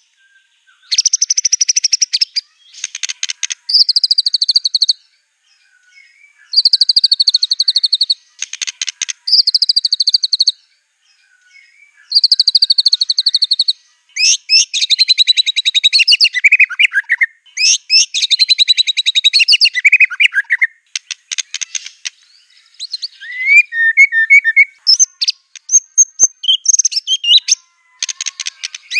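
White-rumped shama (murai batu) singing in loud, rapid trilled phrases about a second or two long, separated by short pauses; from about halfway through, the phrases come almost without a break and vary more in pitch.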